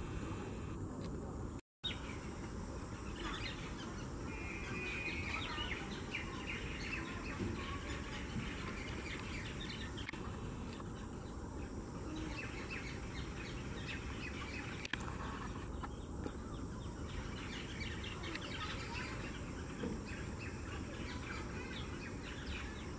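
Wild birds chirping and calling in many short notes over a steady background noise, with a brief trill about five seconds in.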